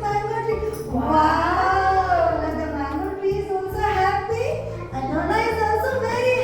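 Children's song: a singing voice carrying a melody with long held, gliding notes over an instrumental backing with steady bass notes.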